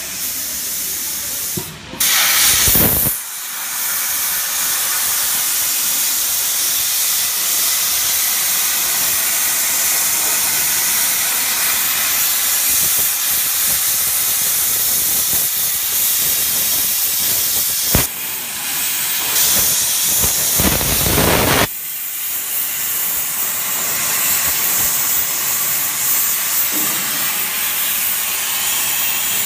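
Cutting torch of a gantry CNC plate-cutting machine hissing steadily as it cuts metal plate. The hiss grows louder and fuller twice, about two seconds in and again around twenty seconds in, and there is a single sharp click shortly before the second surge.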